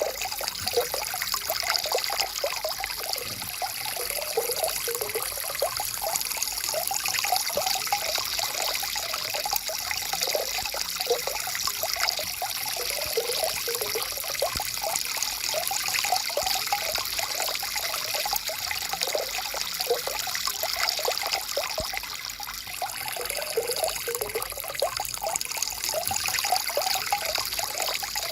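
Stream water flowing steadily over rocks, an even rush with many small bubbling gurgles.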